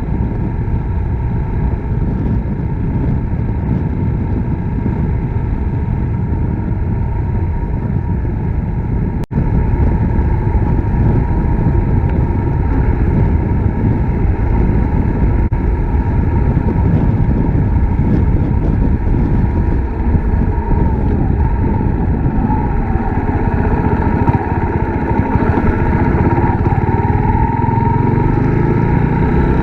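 Suzuki Grasstracker Big Boy's single-cylinder engine running under way, mixed with a steady rush of riding noise. There is a momentary break about nine seconds in, and the engine note rises and falls in the last third.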